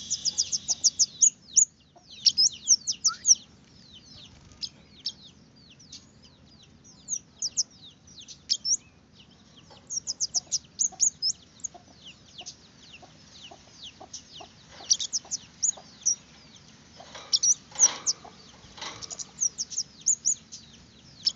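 A small songbird known as kemade (baret merah) singing: quick runs of sharp, high, downward-slurred chirps in bursts with short pauses, a lure song meant to set other birds of its kind singing.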